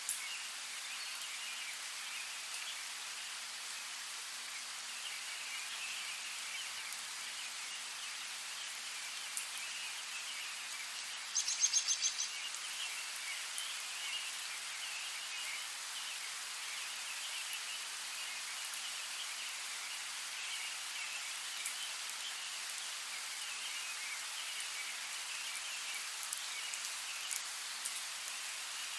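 Steady rain falling, a continuous even hiss with scattered drop ticks. Near the middle, an animal gives one short rapid pulsed call of about a second, louder than the rain.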